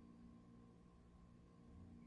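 Near silence with a faint, steady hum of an electric fan running.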